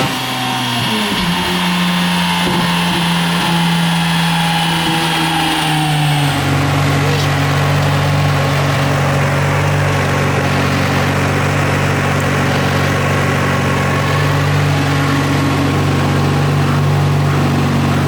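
Turbocharged 13B rotary engine of a Mazda RX-7 FC on a dyno, dropping in revs right after a pull. It holds a fairly steady pitch for a few seconds, then falls again about six seconds in and settles into a steady idle.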